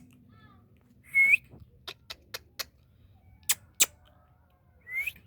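Indian ringneck parrot giving two short rising whistled calls, one about a second in and one near the end, with several sharp clicks between them.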